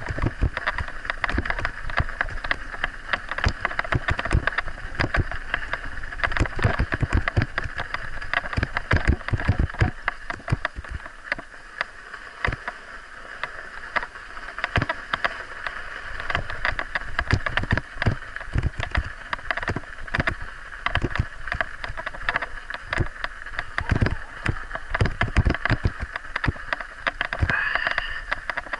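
Scott Spark 50 mountain bike riding along, heard from an action camera: frequent sharp knocks and rattles over a steady rushing noise of tyres and wind. A brief rising squeal comes near the end.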